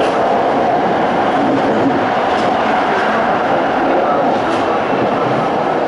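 Toei 5300 series electric train running at speed on the Keikyu Main Line: a steady, loud rumble of wheels on rail inside the car, with two faint clicks from the track.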